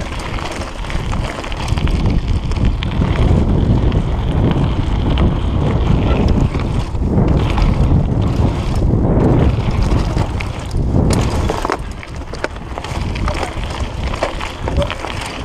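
Wind buffeting the action camera's microphone over the rumble and rattle of a mountain bike descending a dirt trail, somewhat quieter for the last few seconds.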